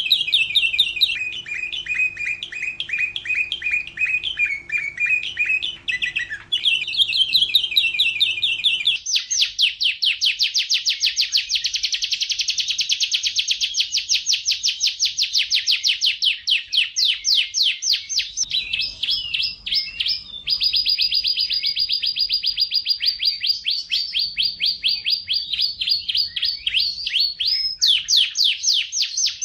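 Domestic canary (Serinus canaria) singing continuously in long rolling trills of rapid repeated notes. The tour changes every few seconds, and about a third of the way in it switches to faster, higher trills.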